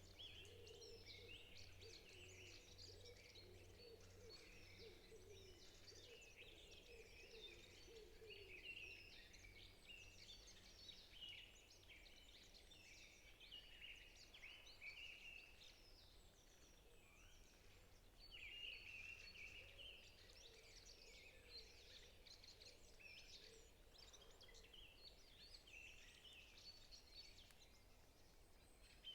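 Faint forest bird chorus: many birds chirping and trilling over one another without pause, over a low steady hum.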